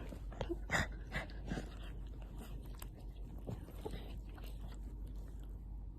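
Puppy licking and mouthing up close: scattered short wet smacks and clicks, most of them in the first two seconds.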